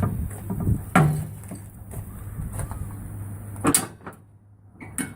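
Work on a tire changing machine: a few sharp knocks and clatters, the loudest about a second in and two more near the end, over a steady low hum.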